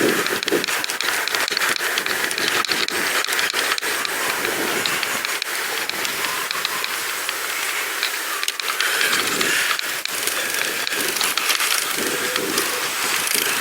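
Riding noise from a pedal bicycle on the move: a steady hiss of wind and tyres with irregular rattling clicks.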